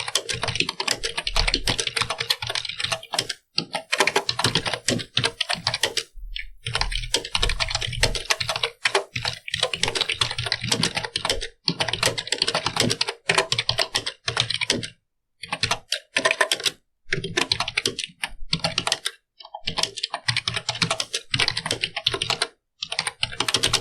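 Computer keyboard being typed on: fast runs of key clicks broken by several short pauses.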